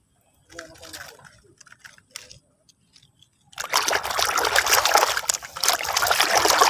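Water sloshing and splashing as a muddy toy school bus is washed by hand. It starts with faint sloshing and handling, then turns to loud, steady splashing from about three and a half seconds in.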